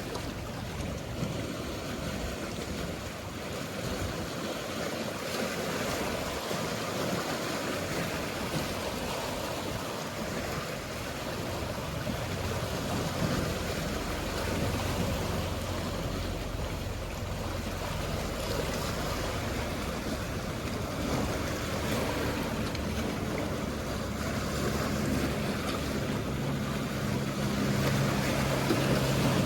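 Mediterranean sea waves washing steadily, with a motorboat's engine drone coming in low about two-thirds of the way through and growing louder toward the end.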